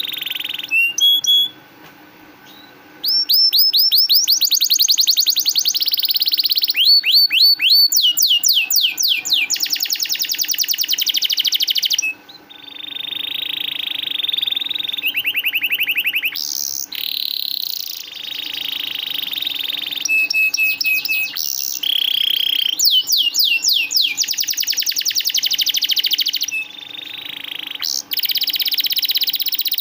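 Domestic canary singing: long rolling trills and runs of fast repeated sweeping notes, in phrases of a few seconds with brief pauses between them.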